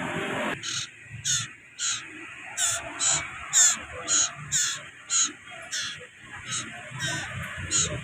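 Young common iora (burung sirtu or cipoh) giving short high calls over and over, about two a second, starting about half a second in.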